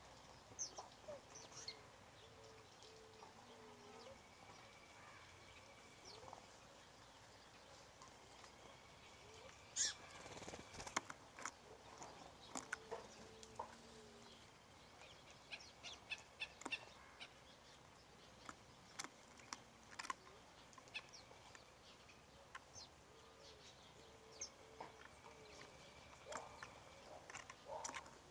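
Birds calling faintly: scattered short chirps and clicks, a few thin drawn-out whistles, and a series of short low notes that recurs about every ten seconds.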